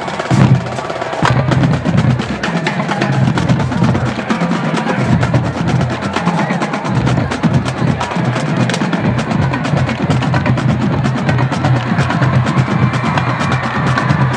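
Marching band drumline playing a fast, dense percussion passage: rapid snare strokes and rim clicks over a steady low drum pulse, with held brass notes coming back in near the end.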